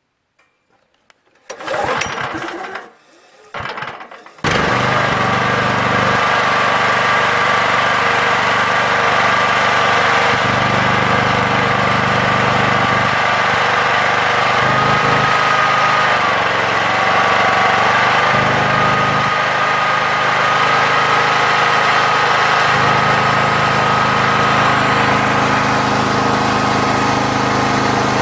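Petrol engine of a hydraulic log splitter pull-started: two short pulls, catching on the second a little over four seconds in, then running steadily with a high whine over it.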